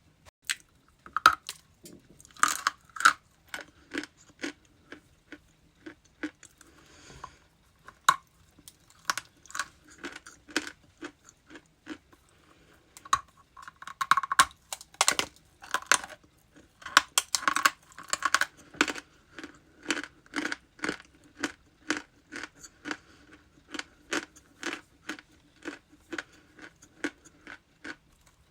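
Close-miked crunching of ice being bitten and chewed: rapid runs of sharp crunches, several a second, with a couple of short pauses.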